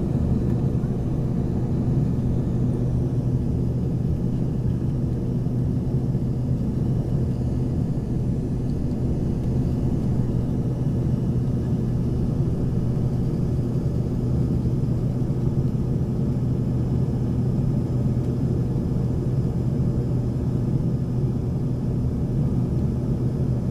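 Steady cabin drone of an Embraer 140 regional jet in its climb, from its rear-mounted Rolls-Royce AE3007 turbofan engines and rushing airflow, heard inside the cabin. A deep, even hum that holds throughout.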